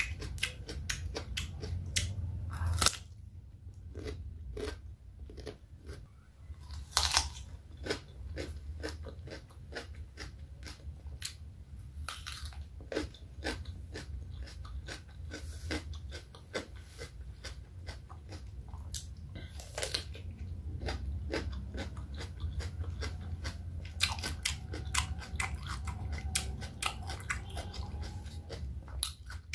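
Close-miked wet mouth sounds of a person eating raw cucumber: bites and wet chewing with many sharp clicks and smacks, and a few louder crunches.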